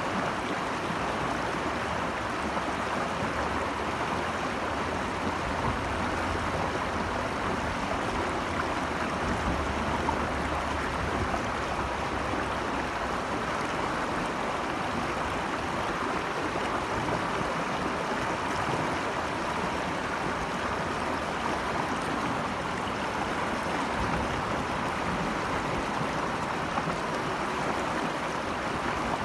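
Stream water rushing steadily, an even hiss of flowing water with no change in level.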